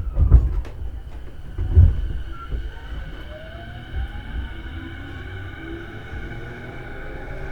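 E233 series electric train pulling away. Two heavy low thumps come in the first two seconds, then the traction motors' inverter whine rises in pitch as the train accelerates over a steady rumble.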